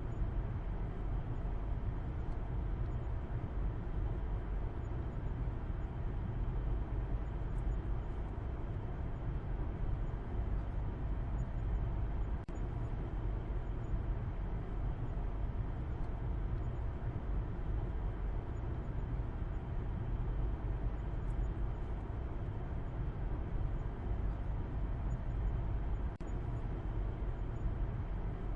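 Steady low rumble of a car driving: engine and road noise, even and unchanging, dipping for an instant twice.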